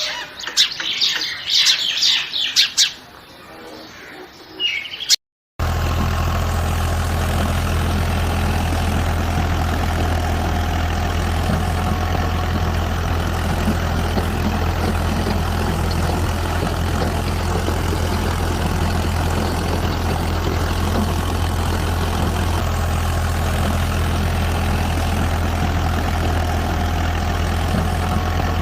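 Birds chirping for the first few seconds. Then, after a sudden cut about five seconds in, a steady low engine sound like a tractor idling runs on unchanged.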